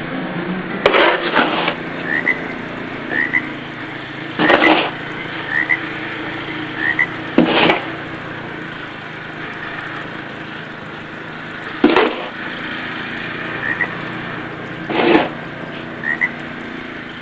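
Snow shovel scraping through snow, five strokes a few seconds apart, with short high chirps between them.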